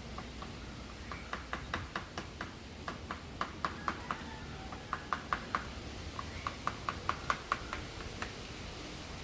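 Woodpecker pecking into tree wood: sharp single taps in an irregular string, a few a second, not a fast drumming roll.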